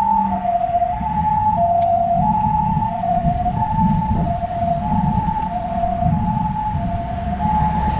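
Ambulance siren sounding its two-tone hi-lo call, alternating evenly between a higher and a lower pitch about every half second, over a steady low rumble.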